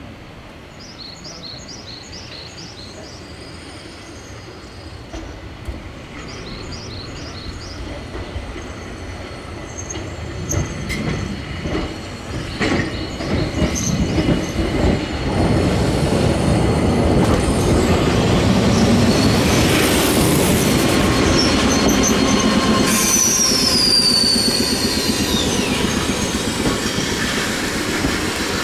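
Eizan Railway 700 series electric railcar arriving over curved track and points, its wheels knocking over rail joints and getting louder as it comes closer. Wheel squeal on the curve, and near the end a high squeal that falls in pitch as the car slows into the station.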